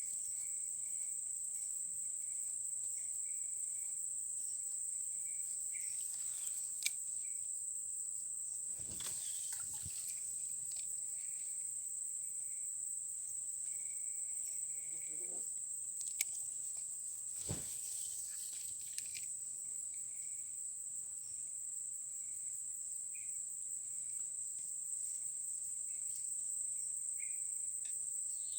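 Steady, unbroken high-pitched insect chorus, with short chirps repeating lower down and a few sharp clicks scattered through it.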